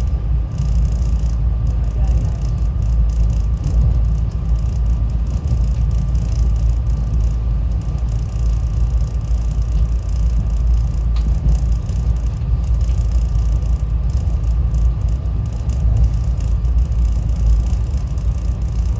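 Steady low rumble of a SEPTA Regional Rail train in motion, heard from inside the passenger car, with a faint steady whine running under it.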